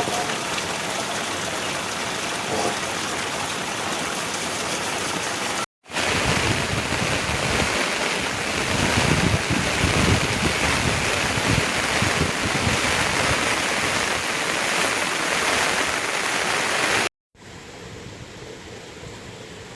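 Steady rushing water noise in three stretches, split by two brief cuts to silence. The middle stretch is the loudest, and the last is quieter.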